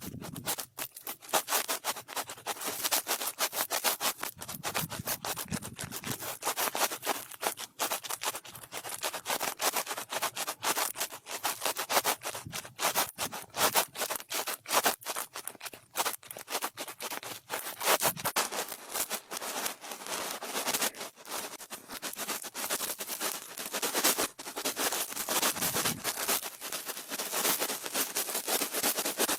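Brush bristles rubbed quickly over the microphone in close ASMR brushing: a continuous scratchy rustle made of rapid strokes.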